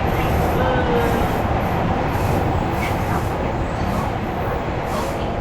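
Odakyu electric commuter train running along the track: a steady rumble of wheels on rails, with a faint whine that glides slightly in pitch.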